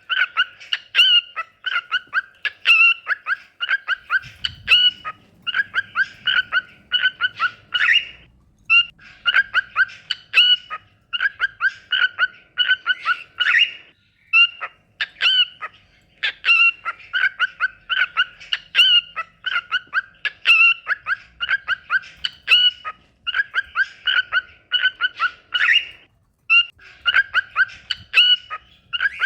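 Cockatiel singing: rapid runs of chirps and whistled notes in phrases, broken by brief pauses every few seconds.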